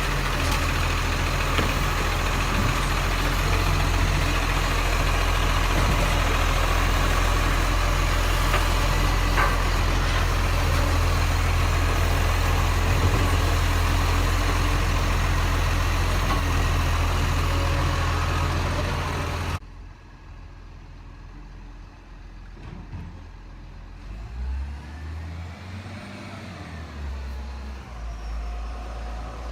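Garbage truck engine running steadily and loud, cutting off abruptly about two-thirds of the way through. It gives way to a quieter vehicle engine whose pitch rises and falls near the end.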